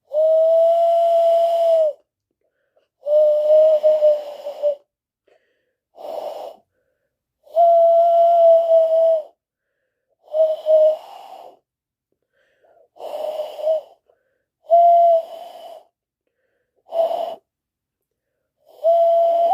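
A person imitating a bird call: a series of about nine breathy, hooting whistled notes at one steady pitch, some held for about two seconds and others short, with pauses between them.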